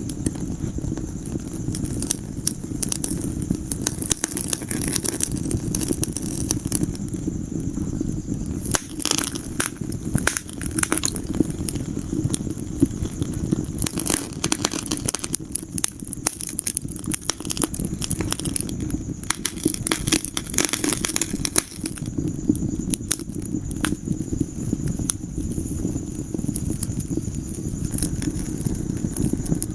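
Wood fire burning in a fireplace: frequent sharp crackles and pops over a steady low rumble, the crackling coming in thicker clusters at times.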